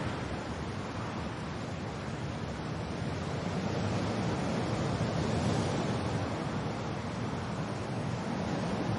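Steady wind and rain, an even rushing hiss that swells a little about halfway through.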